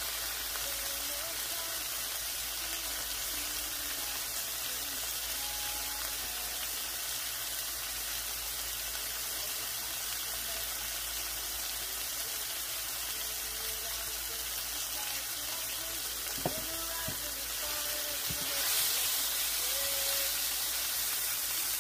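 Cubes of tofu sizzling steadily as they fry in oil in a nonstick pan. A single sharp tap comes about sixteen seconds in, and the sizzle grows louder near the end as a spatula turns the cubes.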